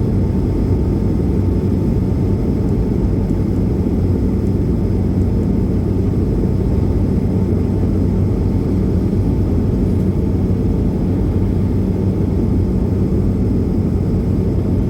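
Steady engine and airflow rumble inside the passenger cabin of an Airbus A220 airliner, its Pratt & Whitney geared turbofans running with a constant low hum under the noise.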